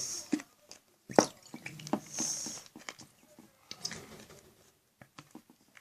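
Thick slime glue being poured from a plastic squeeze bottle into a bowl, coming out with difficulty in small wet spurts and drips, with scattered clicks of the plastic bottle being handled.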